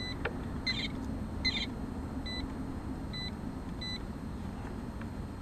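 Short electronic beeps from a multimeter: one at the start, then three more spaced under a second apart from about two seconds in. Two short scratchy noises come between them, over a steady low background rumble.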